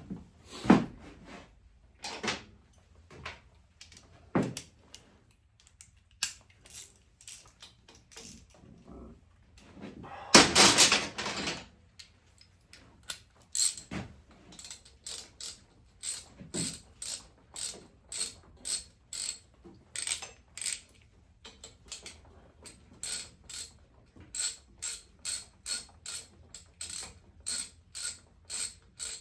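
Hand ratchet wrench clicking in short repeated strokes, scattered at first and then settling into a steady run of about two clicks a second. About ten seconds in there is a louder clatter lasting about a second.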